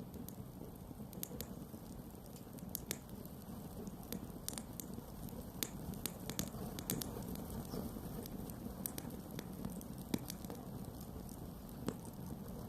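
Wood campfire burning: a steady low rush of flame under irregular sharp crackles and pops, the loudest pop about ten seconds in.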